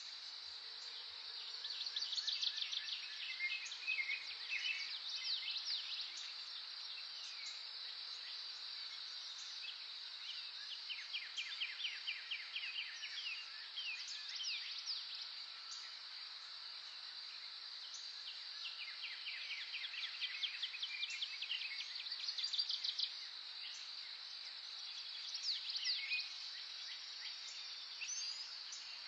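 Wild birds singing in bouts of rapid trills and quick descending notes every few seconds, over a steady high-pitched insect drone.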